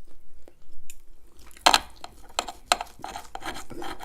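A person chewing food close to the microphone, with wet mouth sounds and two sharp clicks about halfway through.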